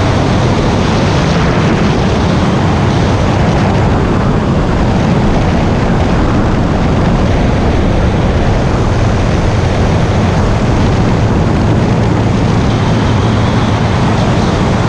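Steady, loud noise of an aircraft in flight: a low engine rumble mixed with rushing air, unchanging throughout.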